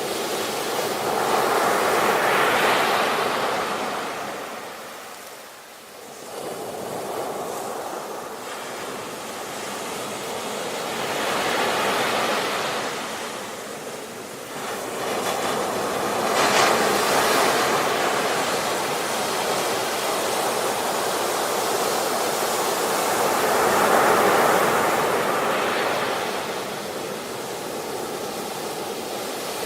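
Ocean surf: waves breaking and washing ashore, swelling and ebbing every several seconds, with a sharp crash about 17 seconds in.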